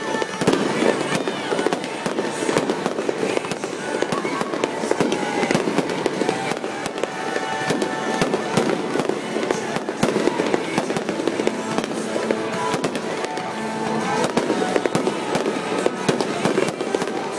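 Aerial fireworks bursting in a rapid, unbroken barrage of bangs and crackles, with music playing underneath.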